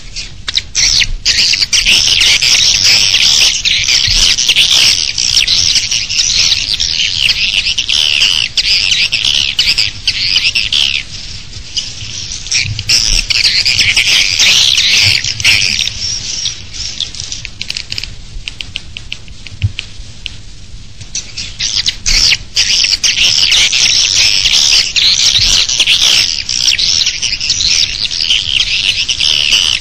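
Swiftlet calls: a dense, high, rapid chirping twitter in long loud stretches, with two quieter breaks partway through. It is the external lure call of swiftlet nest farming, played outside a bird house to attract swiftlets.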